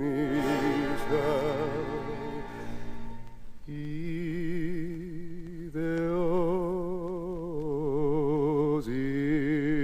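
Background song: a voice holding long notes with a wide vibrato over a steady low accompaniment, moving to a new note every two or three seconds.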